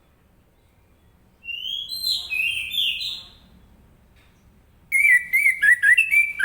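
Orange-headed thrush singing: two loud whistled phrases, the first a series of sweeping notes and the second, about five seconds in, a faster warbling run of lower notes.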